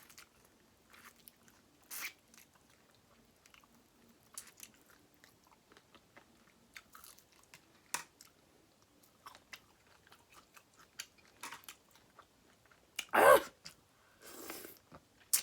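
Close-miked eating of a seafood boil: chewing and biting with scattered small crunches and wet clicks. There is a louder, longer burst of mouth noise about thirteen seconds in.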